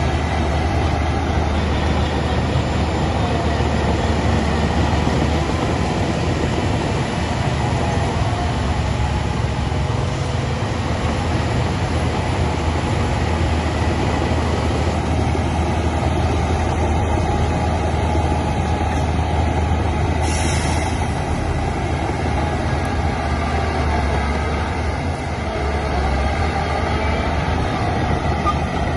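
Heavy diesel earthmoving machinery working, a steady loud low engine drone, with a brief hiss about two-thirds of the way through.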